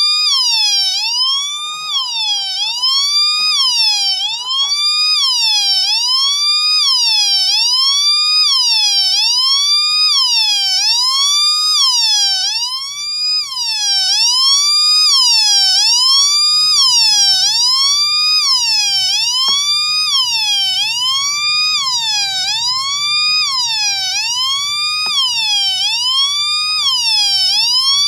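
Home-built two-NE555 police siren circuit sounding through a small 4-ohm speaker: a harsh, buzzy electronic tone that wails up and down in pitch, repeating about once every second and a quarter. The first timer slowly sweeps the second timer's pitch, which gives the rising and falling wail.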